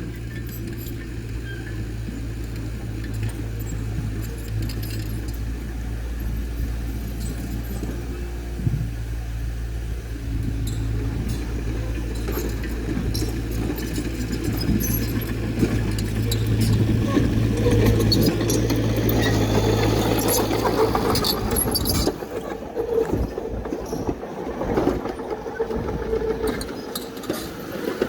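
Diesel engine of heavy earthmoving machinery running steadily, growing louder and working harder for several seconds. About 22 seconds in, the steady engine note drops away, leaving irregular metallic clanks and rattling.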